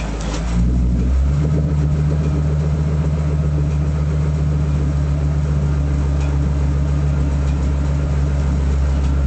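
Ford F-350's 6.8-litre V10 Triton engine running steadily. Its speed steps up about a second in and then holds at a steady, slightly raised pitch.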